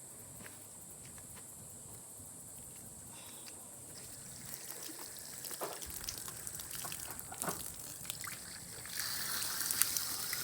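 Water trickling and splashing while an animal's water bucket is being changed. It starts faint, gets louder from about four seconds in with scattered small clicks, and turns into a louder hiss near the end.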